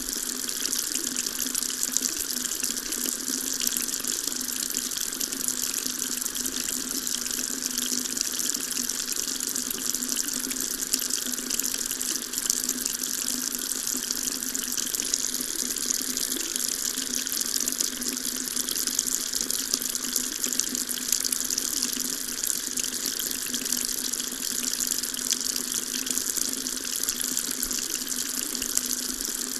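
Water tap running steadily, a constant stream splashing into a sink.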